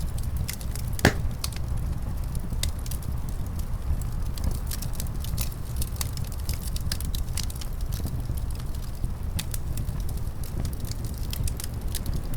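Wood fire crackling: many sharp pops scattered over a steady low rumble, with one louder pop about a second in.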